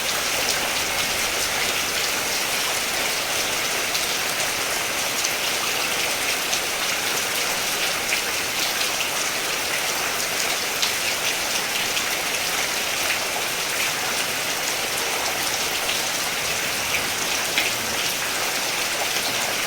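Steady rain falling, a dense even hiss with many fine drop ticks scattered through it.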